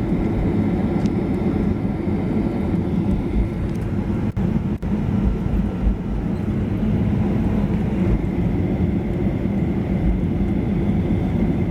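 Steady low rumble inside the cabin of a Boeing 737-800 with its CFM56 engines at idle, taxiing in after landing, with a faint steady whine above it. The sound dips out briefly twice, about four and five seconds in.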